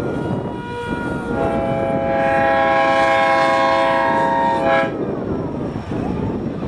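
Train whistle sounding one long chord-like blast of several pitches, lasting about three and a half seconds and cutting off sharply, with a shorter, softer tone just before it, over a steady rumble of the train and surroundings.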